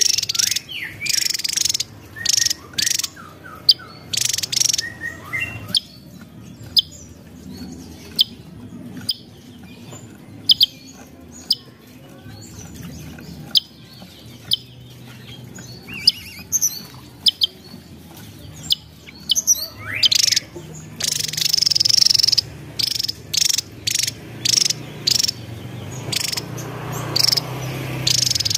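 Javan tesia singing: short, sharp, high notes and rapid buzzy trills, coming in dense bursts near the start and about two-thirds of the way through, with scattered single notes between.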